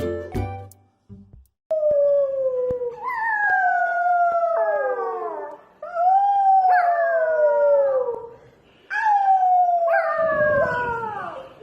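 Dog howling: three long howls, each sliding down in pitch, with short breaks between them.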